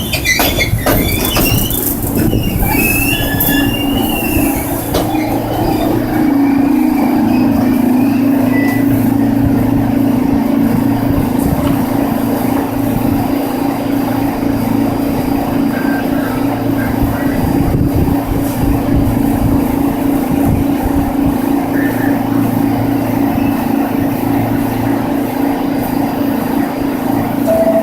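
R46 subway train's wheels squealing as it pulls into the station and slows, then a steady hum while it stands at the platform.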